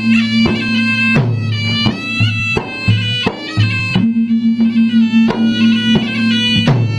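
A traditional Bugis-Makassar gendang drum ensemble playing, with drum strokes coming every fraction of a second. A reedy wind instrument plays a held, wavering melody over a steady low tone.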